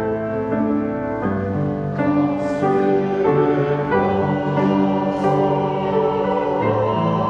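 Church choir singing a hymn in slow, held chords, with instrumental accompaniment.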